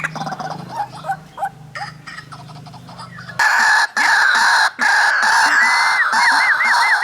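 White-breasted waterhens, male and female, calling. Short scattered calls come first; about halfway through, the calling abruptly turns loud and dense, with a run of quick repeated rising-and-falling notes near the end.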